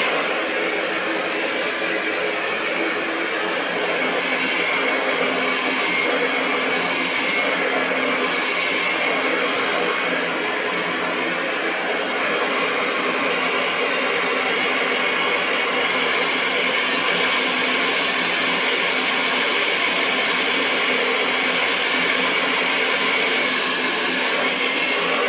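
Hair dryer running continuously, a steady rush of blown air with a faint motor whine.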